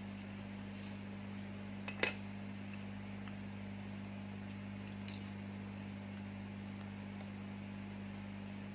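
Steady electrical hum with one sharp click about two seconds in and a few faint ticks later, from a smartphone's parts being handled and snapped together on a repair bench.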